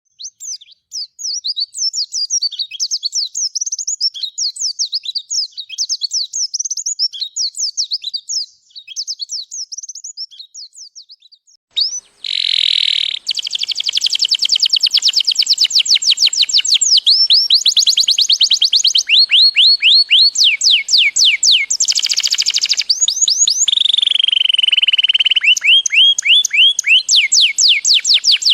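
Recorded songbird song mixing prinia (prenjak), canary and white-eye (pleci) calls: quick high chirps for the first ten seconds or so, then after a short break a louder run of dense, very fast trills broken by a couple of held whistles.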